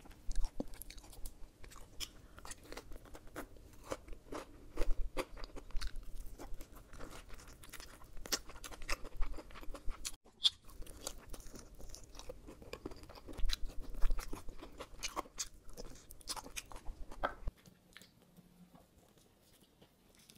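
Close-miked chewing and biting of oven-baked spicy pork ribs, with many sharp, wet clicks of the mouth and of meat being pulled from the bone. A brief break comes near the middle, and it grows quieter toward the end.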